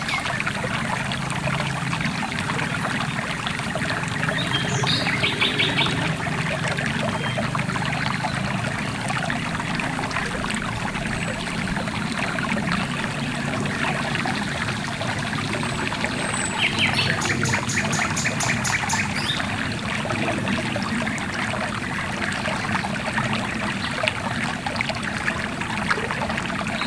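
River water running and trickling steadily. Twice a bird gives a rapid high trill over it: about five seconds in, and again for a few seconds around seventeen seconds.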